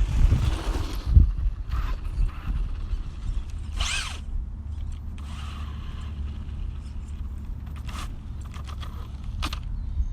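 Radio-controlled short-course truck driving on a dirt track: a brief rising and falling electric-motor whine about four seconds in as it accelerates, with bursts of rustling from the tyres on the dirt and scattered clicks near the end.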